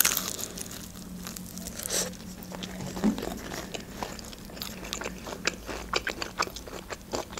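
Close-miked bite into a crispy breaded spicy fried chicken wing, then crunchy chewing with many small crackling clicks. The bite at the start is the loudest, with a few louder crunches a couple of seconds in.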